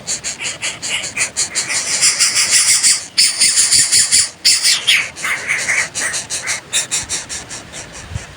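Coucal nestlings giving rapid, raspy begging calls at about eight pulses a second, loudest around the middle.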